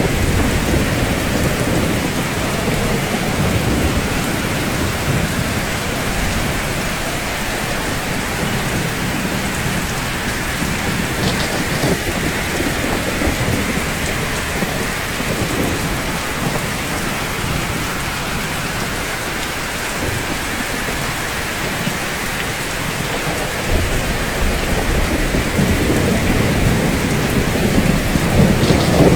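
Steady rain falling on rooftops, an even hiss throughout, with a low rumble of thunder that swells again near the end.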